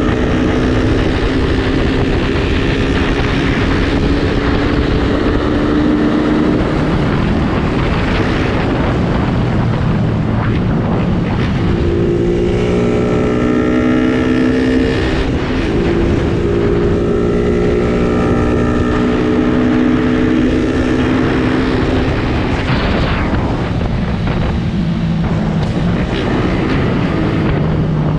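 Suzuki Raider R150 motorcycle's single-cylinder four-stroke engine running under way. The engine note climbs and then drops several times as the rider accelerates and shifts through the gears.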